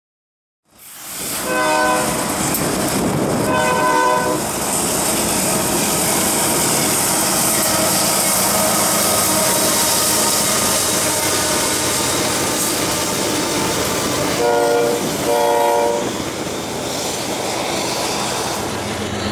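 Freight train led by Union Pacific diesel locomotives rolling past close by, with steady wheel and rail noise. A locomotive horn sounds twice near the start, about two seconds apart, and twice more close together near the end.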